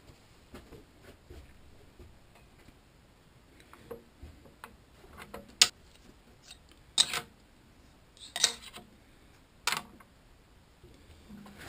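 Scattered sharp clicks and knocks from small metal tools and parts being handled on a workbench, with four louder knocks in the second half.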